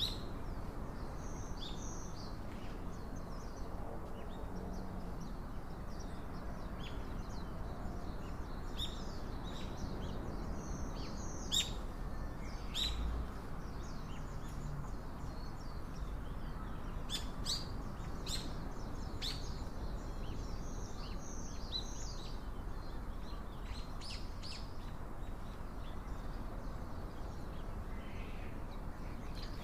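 Small birds chirping, in short high calls scattered irregularly, over a steady low background hiss.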